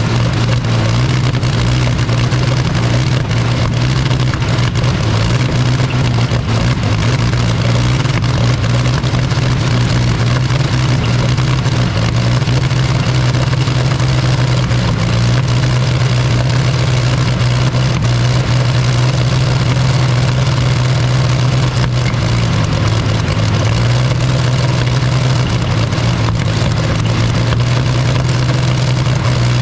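Rolls-Royce Meteor V12 petrol engine running steadily after being started, with slight dips in its pitch a couple of times.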